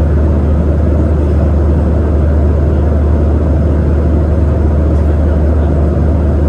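Steady low roar inside the cabin of a Boeing 737-800 airliner in flight: engine and airflow noise, with a deep hum underneath and no change in level.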